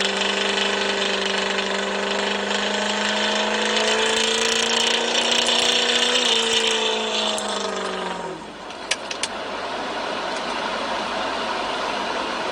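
A vehicle engine running hard at a high, steady pitch that climbs slightly, then slides down and dies away about eight seconds in. Two sharp clicks follow about a second later.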